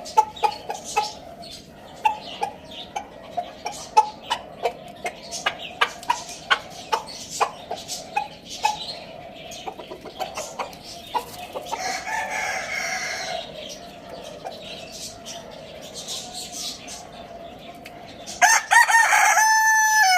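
Chickens clucking in short, sharp calls, then a rooster crows near the end, a loud held call that drops in pitch as it finishes.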